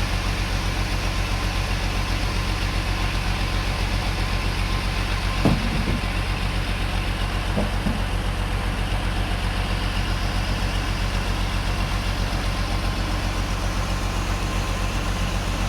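Sawmill engine running steadily at a constant speed with a fast, even pulse, with a sharp knock about five and a half seconds in and a lighter one a couple of seconds later.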